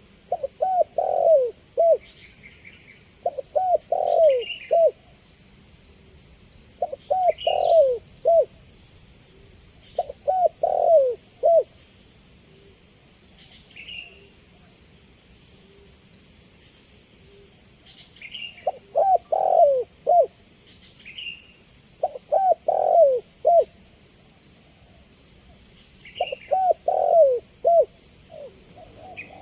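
Spotted dove (tekukur) cooing: a short phrase of a few low notes, repeated about every three seconds, seven times in all, with a pause of about seven seconds in the middle.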